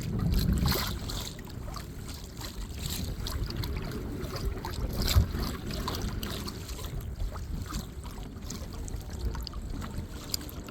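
Water lapping and trickling around a kayak, with wind on the microphone and a few short sharp splashes or puffs, the loudest about five seconds in.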